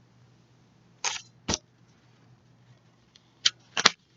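A picture book being handled and its page turned: four short clicks and rustles of paper, two about a second in and two near the end.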